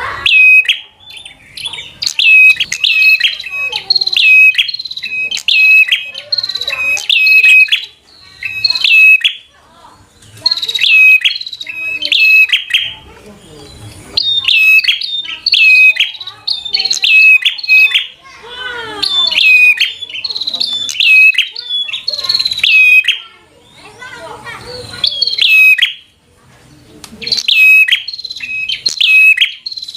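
Prinia (prenjak) singing loudly in rapid volleys of sharp, repeated chirping notes, broken by short pauses: the agitated 'fighter' song that provokes other prinias to answer.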